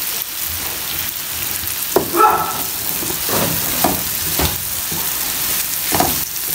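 Diced potatoes, onions and tomatoes sizzling in hot oil in a frying pan, with a steady hiss. A wooden slotted spatula stirs them, scraping across the pan several times.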